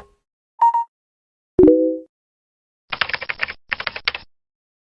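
Two quick runs of rapid computer-keyboard typing clicks, after a short blip and a sharp hit that rings and fades over about half a second.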